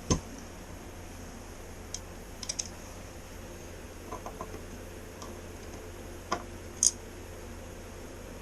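A few light, irregular clicks and taps of small metal parts as bolts are handled and fitted into a garage door opener's housing, over a faint steady low hum.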